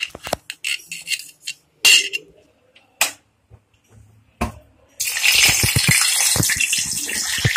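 A knife clicking against a steel plate as boiled soya chaap sticks are sliced. About five seconds in, a sudden loud, steady sizzle starts as chaap slices go into hot oil in a kadhai and begin frying.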